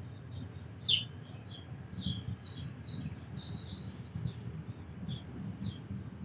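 Sparrows chirping: a run of short, high chirps throughout, with one loud note sweeping downward about a second in, over a low background rumble.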